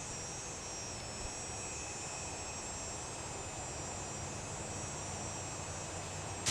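Steady forest ambience: insects trilling in steady high tones over a low, even drone and hiss.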